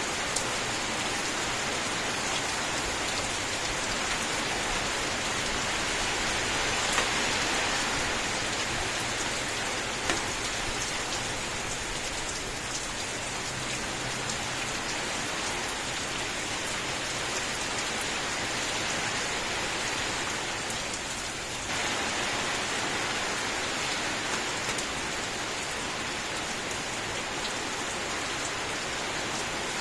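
Continuous steady rainfall falling on a surface, with a few sharper individual drop ticks standing out, including one near the start and two more about 7 and 10 seconds in. About three-quarters of the way through, the rain briefly dips, then changes character abruptly and carries on.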